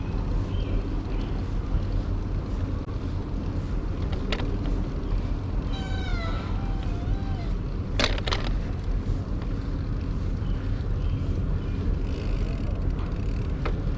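Steady low rumble of a bicycle ride, with wind and rolling noise. About six seconds in, a short falling mewing call sounds twice, and a sharp click comes about eight seconds in.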